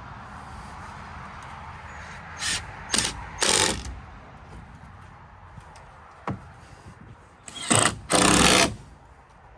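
A handheld power tool run in five short bursts, three in quick succession and then two more about four seconds later, over a low steady background hum.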